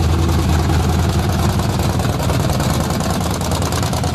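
Car engine running loud on open (uncapped) exhaust headers, a steady idle with fast, even exhaust pulses, growing slightly quieter toward the end.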